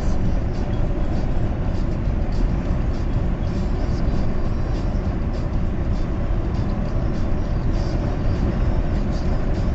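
Steady road and wind noise of a car driving on a highway, heard from inside the car, with a deep rumble.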